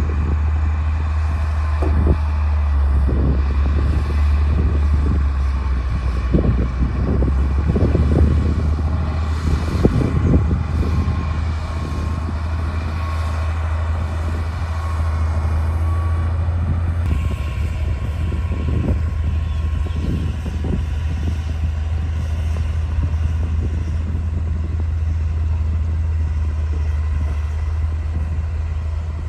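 D60 crawler bulldozer's diesel engine running steadily with a deep hum. Irregular knocks and clanks come mostly in the first half, with a steady thin whine over it that changes about two-thirds of the way through.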